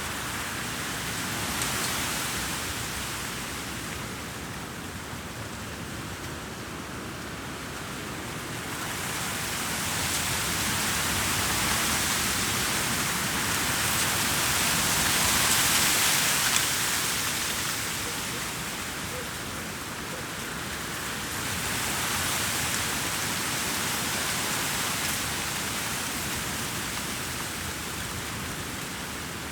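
Ocean surf washing onto a beach: a steady rushing noise that swells and ebbs every several seconds as waves break.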